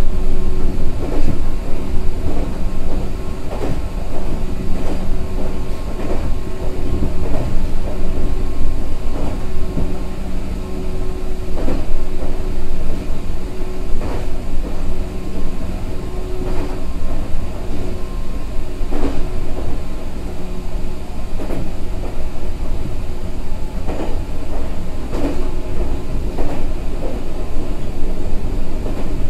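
Meitetsu 6000 series electric commuter train running at speed: a steady low rumble of wheels on rail with a hum that fades away a little past halfway, and wheels clacking over rail joints every second or two.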